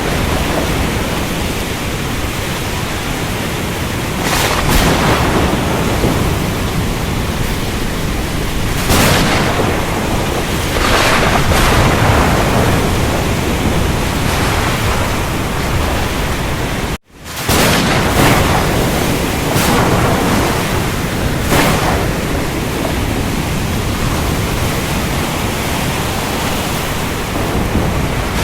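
Ocean storm: a steady rush of heavy rain and surf, with louder surges every few seconds. The sound cuts out for a split second about two-thirds of the way through.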